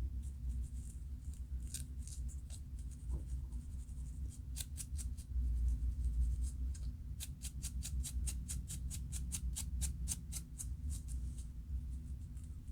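Scalp being scratched to loosen dandruff flakes: short, crisp scratching strokes, a few about halfway through, then a fast, even run of about five strokes a second.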